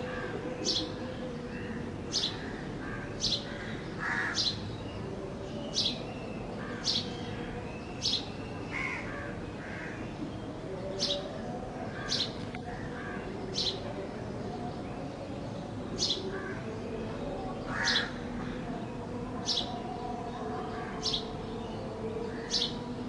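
House sparrow chirping: a short, sharp high note repeated about once a second, over and over. A few lower, harsher calls from other birds come in three times.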